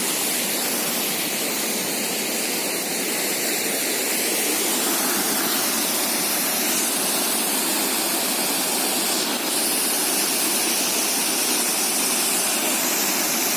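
Cascade of waterfalls with water rushing steadily in an even, unbroken hiss.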